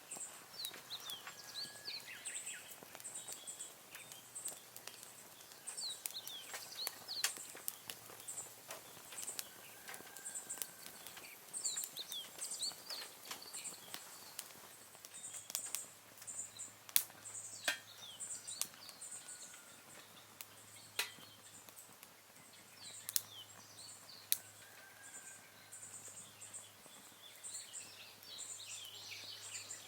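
Twigs and leaves burning in a small twig stove, crackling with scattered sharp snaps, the loudest a little past halfway. Birds chirp and an insect keeps up a regular high chirping behind it.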